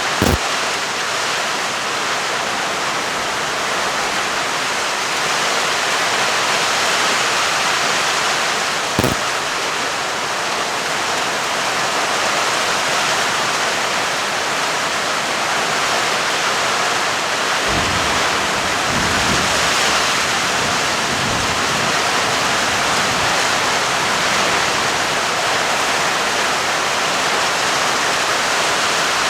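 Steady downpour of rain hissing. There are two short sharp cracks, one at the very start and one about nine seconds in, and a low rumble of thunder about eighteen to twenty-two seconds in.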